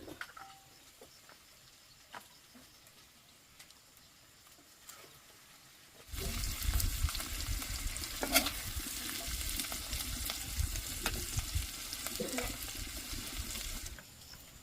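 Food frying in a hot pan, a loud steady sizzle with scraping and clicking from stirring, starting abruptly about six seconds in and cutting off sharply near the end. Before it, only faint quiet clicks.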